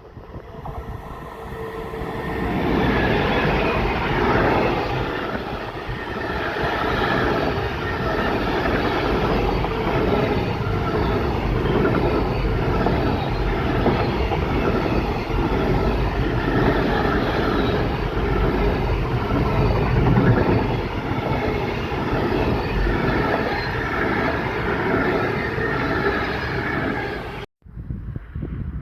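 Container freight train passing close by at speed: a steady rolling rumble of wheels on rail with a regular clatter. It builds over the first few seconds and cuts off suddenly near the end.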